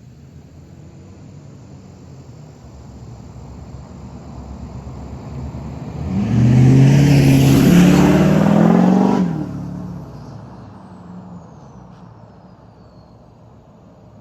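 Pickup truck with a 6.6 L LBZ Duramax V8 turbodiesel and a 5-inch straight-pipe exhaust driving past. The exhaust note builds, is loudest for about three seconds in the middle with its pitch dropping as it passes, then fades away.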